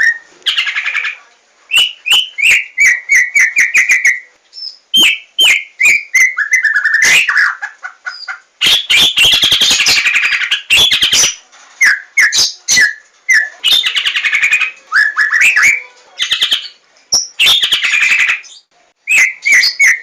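White-rumped shama singing: runs of short clear whistled notes that slide and step around one pitch, alternating with rapid harsh chattering passages, with brief pauses between phrases.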